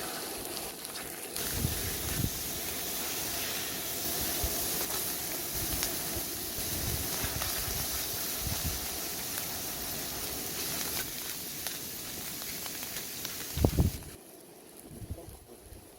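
Food sizzling in a hot pan: a steady hiss with small crackles that stops suddenly about fourteen seconds in, just after a knock.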